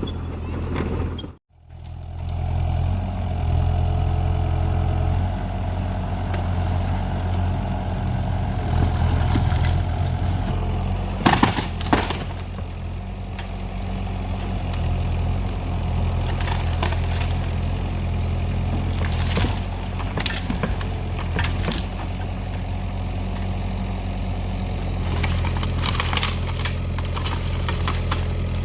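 Kubota excavator's diesel engine running steadily, with occasional sharp knocks and clanks as it works.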